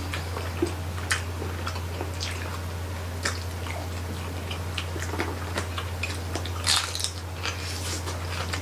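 Close-up mukbang eating sounds of people biting and chewing roast pig (lechon): scattered short crunches and wet mouth clicks, busiest about seven seconds in, over a steady low hum.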